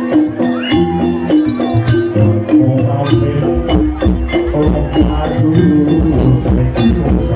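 Live jaranan (kuda lumping) accompaniment music: an ensemble of pitched instruments and percussion, with a dense run of rhythmic strikes and held notes.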